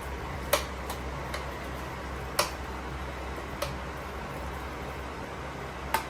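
A few sharp clicks or taps, four of them loud and spaced irregularly, over a steady low hum.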